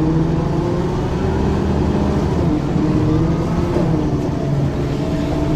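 Diesel engine of a 1994 Ikarus 435 articulated bus with a ZF gearbox running under way, its note shifting in pitch about halfway through.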